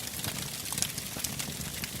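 Wood fire burning in a fireplace, crackling and popping steadily over a low rumble of the flames.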